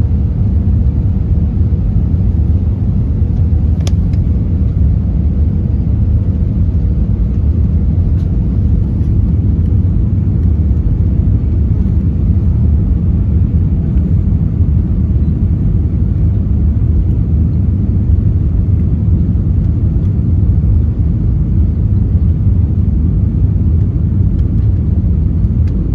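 Airbus A320 cabin noise in flight: a steady, loud low rumble of the engines and airflow, with a faint click about four seconds in.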